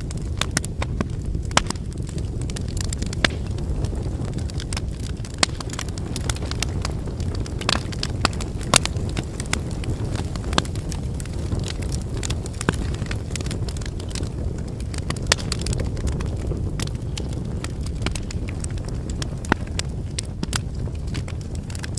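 Wood campfire burning: a steady low rush of flames with irregular sharp crackles and pops from the burning logs, a few pops louder than the rest.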